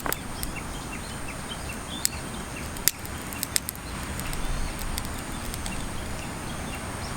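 Outdoor ambience: a steady background hiss with many faint, short bird chirps repeating throughout, and a few sharp clicks.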